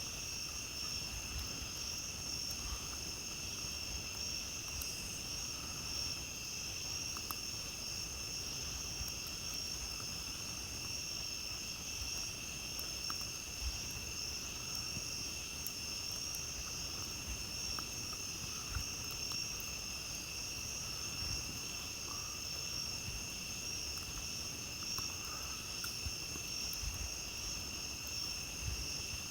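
Steady chorus of night insects, crickets among them, trilling without pause at two high pitches. Faint campfire crackles pop now and then.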